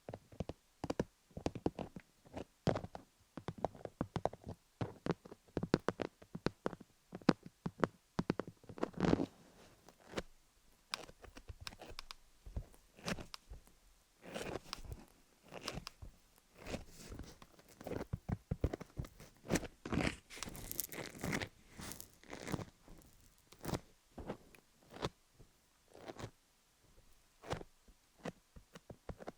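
Fingers working sticky Vaseline over a rhinestone-studded dummy-head microphone, giving close, irregular sticky crackles and tacky clicks.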